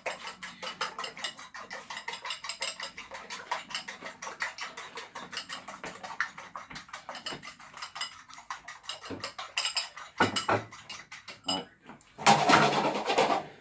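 A fork beating eggs and milk in a bowl: rapid, even clicking of metal against the bowl, which thins out after about ten seconds. Near the end there is a short, louder rush of noise.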